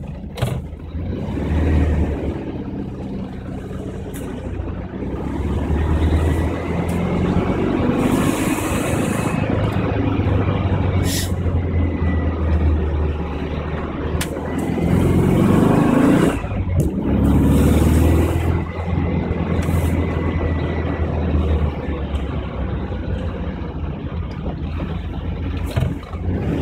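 1973 Volkswagen Beetle's air-cooled flat-four engine running under way, heard from inside the cabin. The engine note pulls up and eases off several times, with short breaks between.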